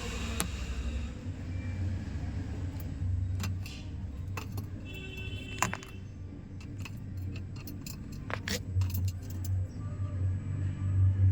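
A string of irregular light metallic clinks and taps over a steady low hum, with a brief pitched squeak about five and a half seconds in.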